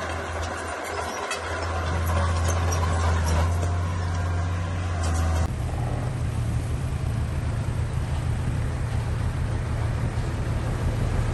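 Heavy diesel engine of a bulldozer running steadily under work, with faint clicks and rattles over it in the first half. About five and a half seconds in the sound changes abruptly to a different steady engine drone.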